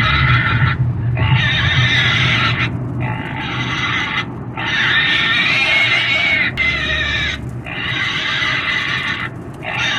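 Pig squealing and screaming in a run of long, harsh, shrill cries of a second or two each, with short breaks between them.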